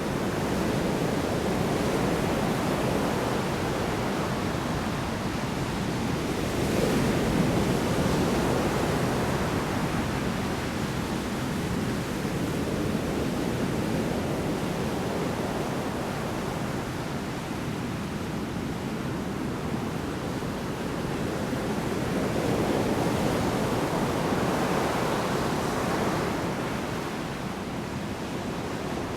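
Heavy surf in a storm: large waves breaking on the shore, a continuous rushing wash that swells about seven seconds in and again near the end.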